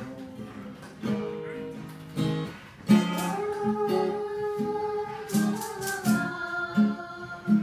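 Acoustic guitar playing an instrumental passage of a slow song, with plucked and strummed chords and some held notes.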